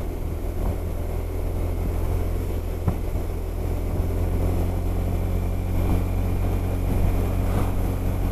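Honda SH 300i scooter's single-cylinder engine running at a steady speed while riding, with road and wind noise over it.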